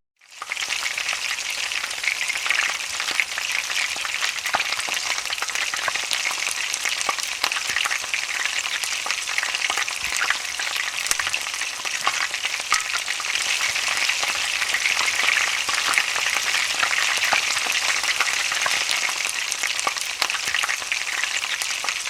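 Fish frying: a steady sizzle with many small crackles and pops.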